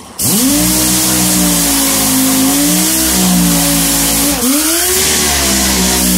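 A motor speeding up quickly and then running at a steady pitch; about four seconds in its pitch dips sharply and climbs back up.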